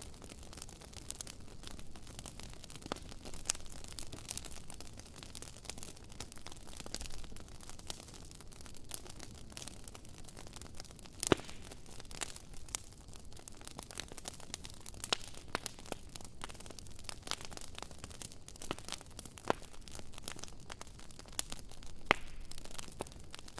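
Wood campfire crackling steadily, with irregular sharp pops; the loudest come about eleven seconds in and again near the end.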